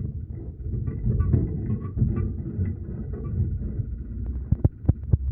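Low road and vehicle rumble in traffic, with a few sharp knocks about four and a half to five seconds in.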